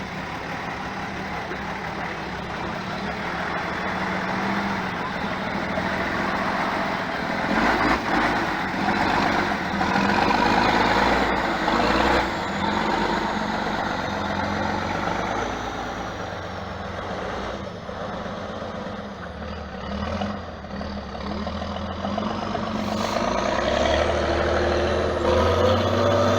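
Off-road competition truck's engine working under load, revving up and easing off several times, loudest about a third of the way in and again near the end.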